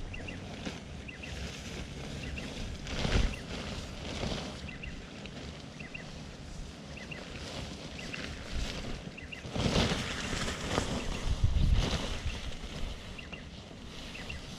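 Wind gusting across the microphone, with stronger buffeting swells about three seconds in and again around ten and twelve seconds. Faint short high chirps come through now and then.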